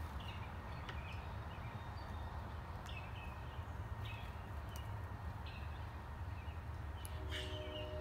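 Small birds chirping in short repeated notes, about one every second or so, over a steady low background rumble. About seven seconds in, a steady low hum with several tones comes in.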